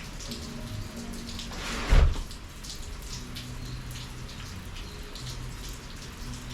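Summer rain falling, with individual drops ticking sharply close by over a steady hiss. A single loud, low thump with a brief whoosh about two seconds in.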